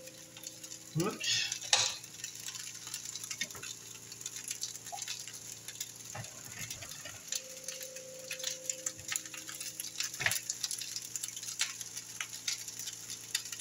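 Chicken fried rice sizzling and crackling in a hot skillet. A few louder scrapes come about a second in and again near ten seconds, as chopped green onions are pushed off a wooden cutting board into the pan.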